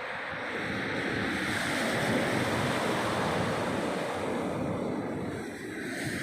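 Black Sea surf breaking, with gusting wind buffeting the microphone. The wash swells to its loudest about two seconds in and eases off near the end.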